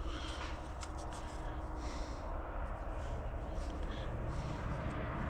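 Light rustling and scattered small clicks of hands working with parts, over a steady low hum.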